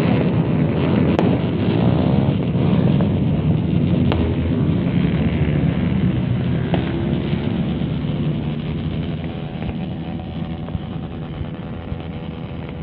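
Many motorcycles with open 'brong' exhausts revving together in a loud, continuous din, with engines rising and falling in pitch, easing off a little toward the end.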